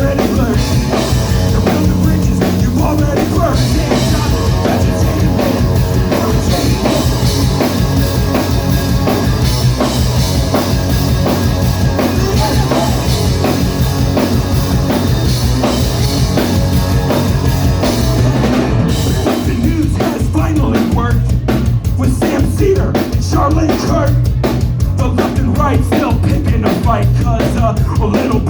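Live rock band playing loud, with a drum kit driving a steady beat under the guitars and bass. About two-thirds of the way through, the high, bright wash drops away and the music turns sparser and more drum-led.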